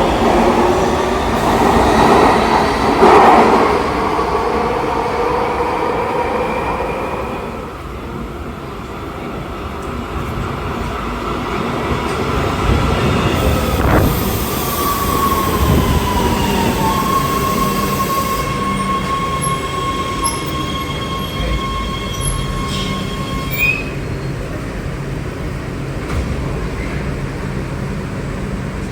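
Metro rail train in an underground station: the electric drive whines in gliding tones over the wheel and track rumble, with some wheel squeal, for the first several seconds, then eases off. About fourteen seconds in there is a sharp knock, followed by a falling tone that settles into a steady whine over the train's low hum.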